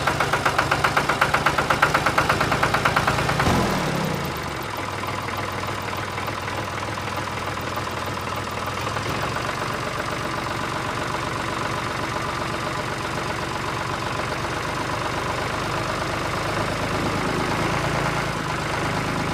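An engine or motor running, with a fast knocking pulse for the first few seconds. About three and a half seconds in, one tone falls away in pitch, and a steadier running hum carries on.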